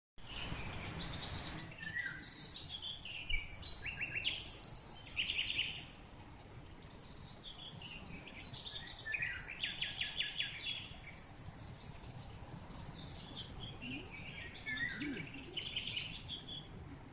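Songbirds singing: chirps and short trills in phrases that come back about every five seconds, over a steady low background rumble.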